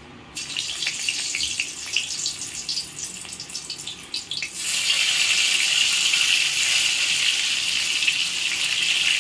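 Boiled pieces of suran (elephant foot yam) dropped into hot mustard oil in an aluminium kadhai, crackling and spitting at first. From about halfway in it turns to a louder, steady sizzle as more pieces go into the oil.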